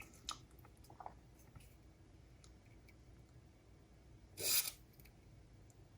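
Faint clicks of small parts being handled on a repair bench, then one short hiss about four and a half seconds in.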